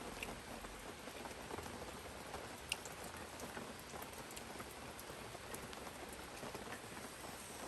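Steady rain falling, a soft even hiss with scattered raindrops ticking, one sharper tick about two and a half seconds in.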